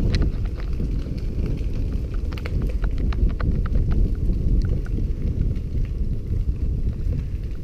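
Wind buffeting the microphone with a steady low rumble, and scattered light clicks and knocks throughout.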